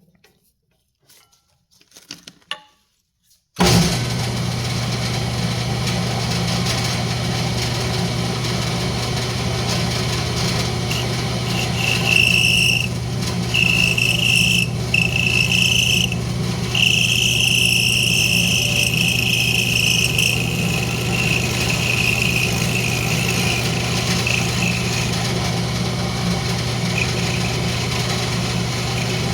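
Wood lathe switched on with a sudden start, then running with a steady hum. Partway through, a high squeal comes in several stretches with short breaks as a parting tool cuts into the spinning rosewood, and it tapers off later.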